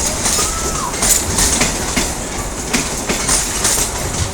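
A passing train's wheels clacking over rail joints, a run of sharp clacks, often in pairs, over a steady rumble of the train.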